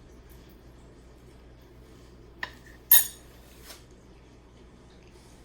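A fork clinking against a plate twice while eating, the second strike louder and ringing, followed by a faint tick.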